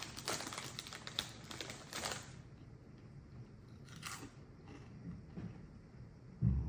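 Plastic crisp packet crinkling and tearing as it is opened, with a dense crackle for about two seconds that then drops to a few quieter rustles, and a low thump near the end.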